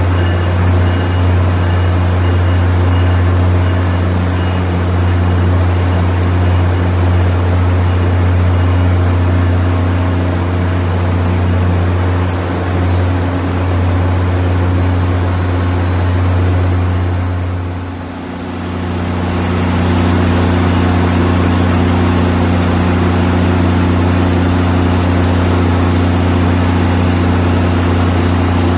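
MBTA commuter train rolling slowly past, with a loud steady low diesel engine drone. The drone dips briefly about two-thirds of the way in, then carries on steady.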